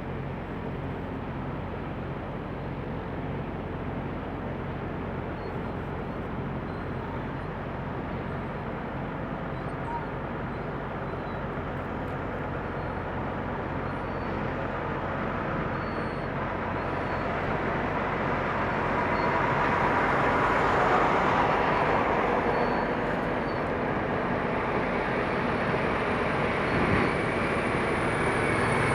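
Diesel semi-truck engine running with a steady low hum, growing louder as a big rig moves close by, loudest about twenty seconds in.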